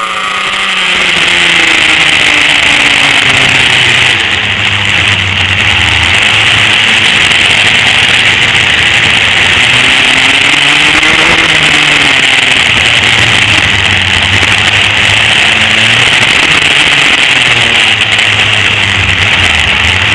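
Vintage dual rear-engine racing karts running hard on track, their engines rising and falling in pitch as they rev through the corners.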